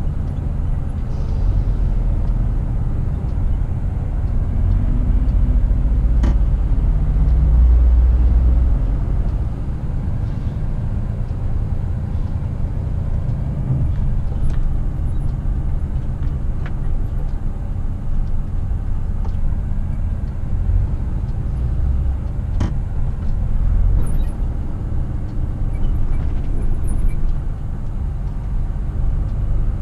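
Scania R450 truck's 13-litre straight-six diesel pulling at road speed: a steady low rumble with road noise. A couple of sharp clicks cut through, about six seconds in and again a little past twenty seconds.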